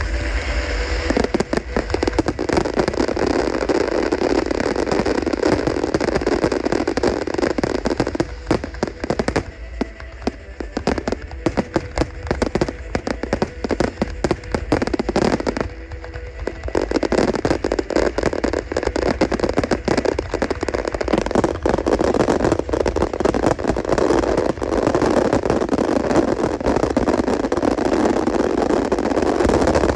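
Fireworks going off in a dense, rapid barrage of bangs and crackling. It thins out about eight seconds in, then builds to a thick, continuous volley again from about seventeen seconds on.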